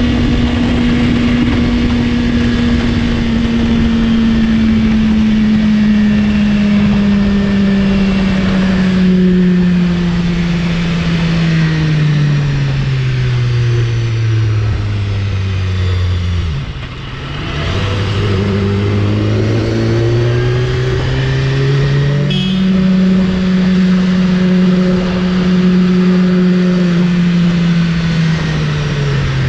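BMW S1000RR's inline-four engine running under the rider, over a steady rush of road and wind noise. Its revs fall slowly as the bike slows for about sixteen seconds, drop away briefly, then rise again. A little past the middle the pitch jumps up suddenly, then eases off gradually toward the end.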